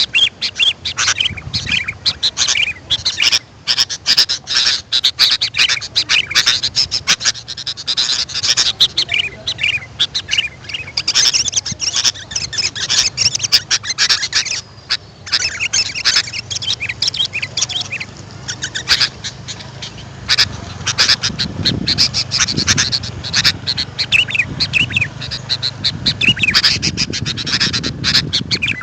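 Sooty-headed bulbuls (kutilang) calling: a dense, almost unbroken run of quick chirps and calls.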